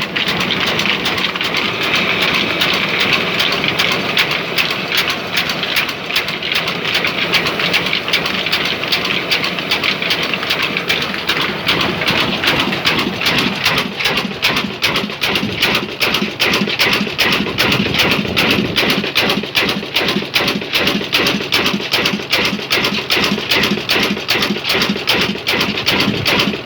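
Engine running steadily with a fast, even firing beat.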